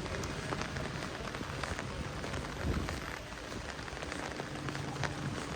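Heavy rain falling on a city street: a steady hiss scattered with many sharp ticks of single drops.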